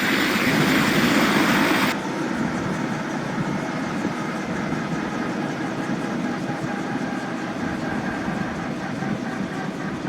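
Boeing CH-47D Chinook's twin turboshaft engines and tandem rotors running steadily close by. About two seconds in, the loud hiss drops away abruptly and a lower, steady running sound remains.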